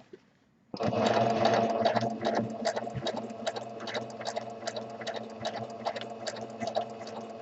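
Sewing machine doing free-motion stitching: it starts up suddenly under a second in and runs steadily, a hum with rapid, even needle ticks. It is slightly louder for the first second or so.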